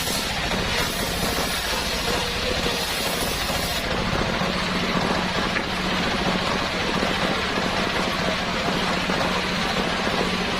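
Engine of a home-built circular-saw sawmill rig running steadily, with a fast even pulse and a steady low hum; a brighter hiss rides on top for the first few seconds.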